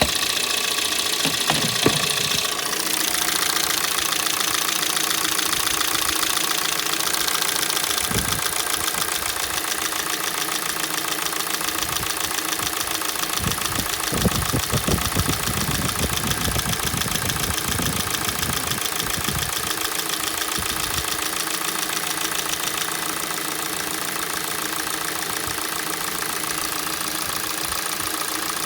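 Hyundai/Kia G4NA 2.0-litre four-cylinder petrol engine idling with a fast, steady knocking. The owner says the knock appears on a cold engine and goes away as it warms up. A few dull low thuds sound in the middle.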